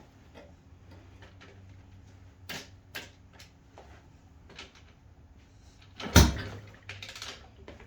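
Scattered mechanical clicks and knocks from an X-Pro Storm 125cc pit bike's controls being worked, with one loud thump about six seconds in, over a faint low hum.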